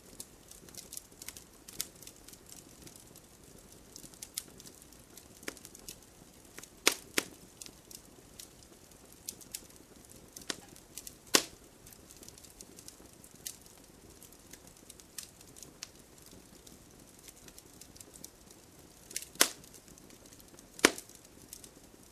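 Wood fire burning and crackling: a faint steady low hiss under irregular small clicks, with a few sharp, loud pops from the burning logs, the loudest about 7, 11, 19 and 21 seconds in.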